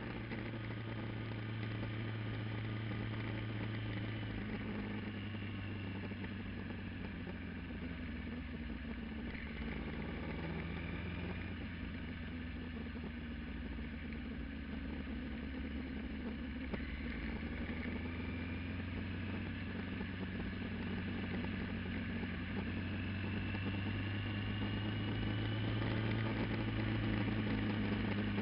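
Kawasaki GPZ900R's inline-four engine running with an aftermarket exhaust, its pitch holding fairly even with small rises and falls, and getting slightly louder near the end.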